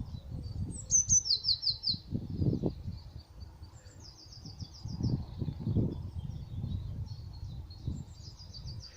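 Songbird singing outdoors: three short phrases of rapidly repeated high notes, a few seconds apart. Under them, irregular low rumbling thuds, loudest about a second in.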